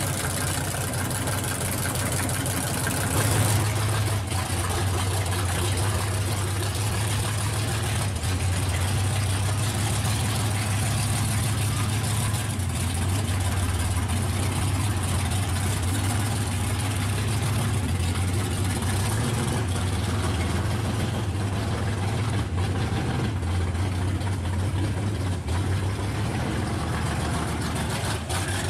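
Drag-race cars' engines idling, a steady low-pitched run with no revving.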